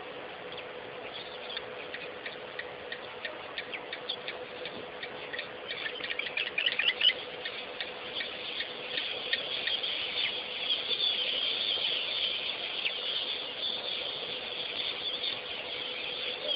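Birds chirping in a rapid stream of short, high-pitched calls. The calling grows busier and louder about six seconds in and again in the second half, over a faint steady hum.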